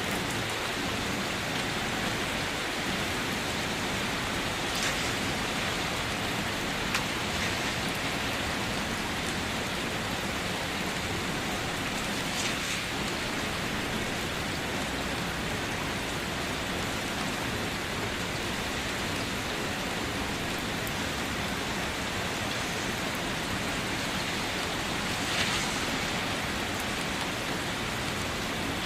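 Steady rain drumming on a car, a dense even hiss with a few louder single drop strikes now and then.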